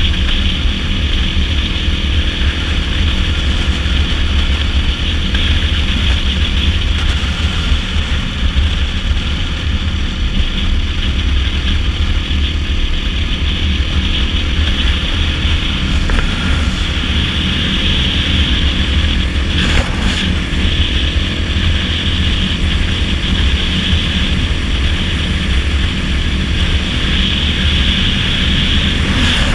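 Dirt bike engine running steadily at road speed, under heavy wind rumble on the rider's microphone. A brief tap sounds about two-thirds of the way through.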